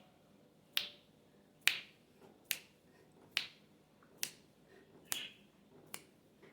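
Sharp single clicks at a steady, even beat, a little more than one a second, seven in all.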